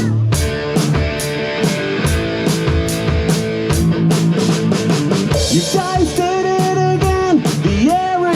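Live rock band playing the instrumental intro of a punk-rock song: drum kit keeping a fast, steady beat under electric guitars and bass. A lead line with bending notes comes in about six seconds in.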